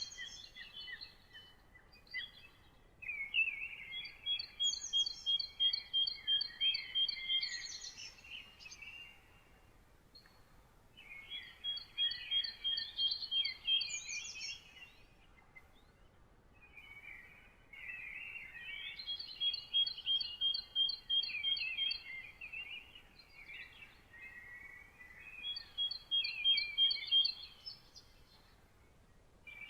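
A songbird singing long, fast phrases of repeated notes and trills, about five phrases in turn with short pauses between them.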